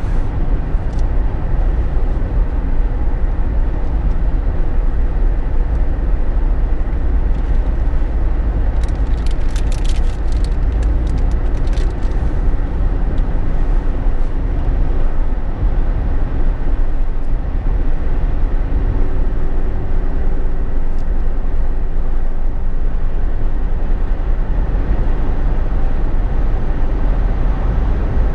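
Steady low rumble of road, tyre and engine noise inside a Jeep Wrangler JK's cabin while driving. A few light clicks come through about 9 to 12 seconds in.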